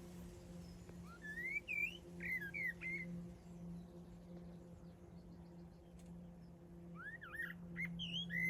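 Common blackbird singing: two phrases of rising, slurred whistled notes, one about a second in and another about seven seconds in, over a faint steady low hum.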